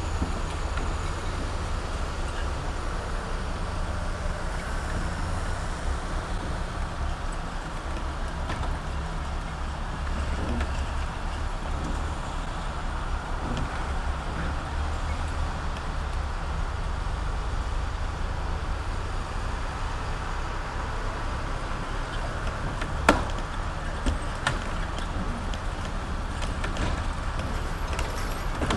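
Heavy truck diesel engine running steadily at low revs, with two short sharp knocks late on.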